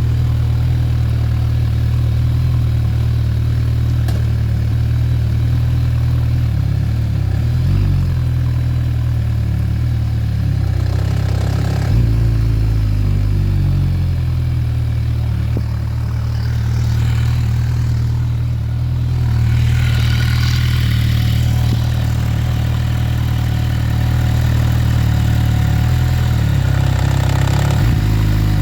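MV Agusta Brutale 1090R inline-four engine running at low revs, with an odd noise that comes on as the clutch is released at low rpm, cause unknown to the owner. A couple of short knocks stand out, about twelve seconds in and near the end.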